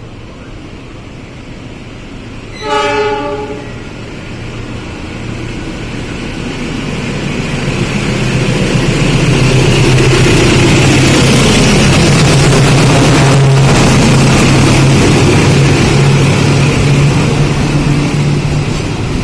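Train horn sounds one short blast, then a locomotive-hauled passenger or freight train approaches and passes close by. Its diesel engine runs with a steady low drone under growing wheel and rail noise, which is loudest in the middle and eases slightly near the end.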